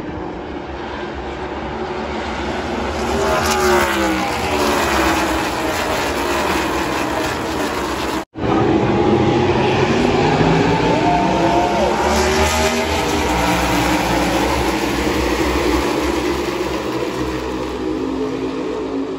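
NASCAR V8 stock-car race engines running at speed on an oval, with the field's engine pitch sweeping downward as packs of cars go past, about four seconds in and again around eleven seconds. The sound drops out for a split second a little before the middle.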